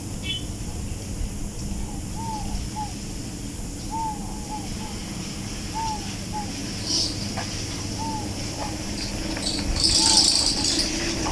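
A bird calling over a steady low background rumble: short arched chirps, often two close together, repeating every second or two. A louder hiss comes in near the end.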